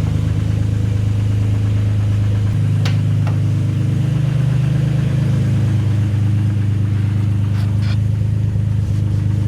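Nissan 300ZX's twin-turbo V6 idling while it warms up after a cold start on E85, with no idle air control valve; the idle steps up slightly a few seconds in and settles back down. A few light clicks sound over it.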